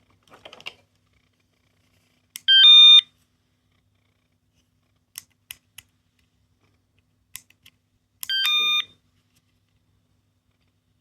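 Miniature electronic capsule toy sounding a two-note chime, a higher beep then a lower one, twice about six seconds apart. Each chime is set off by a click of its button, with small plastic clicks in between.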